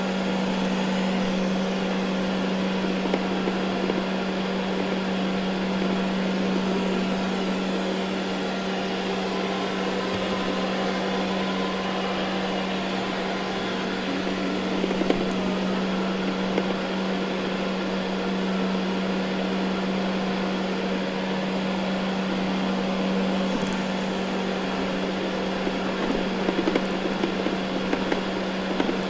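Ecovacs Deebot N79 robot vacuum running on carpet: a steady motor hum with a low drone and brush and suction noise, with a few faint clicks and ticks from the brushes picking up debris.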